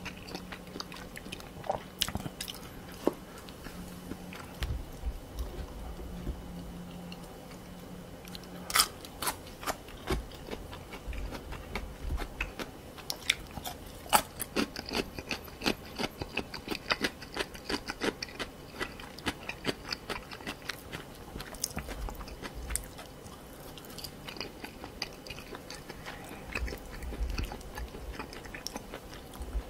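Close-miked chewing and crunching of spicy stir-fried pork cartilage (odolppyeo): a dense run of sharp, crunchy clicks, thickest through the middle, as the gristle breaks between the teeth.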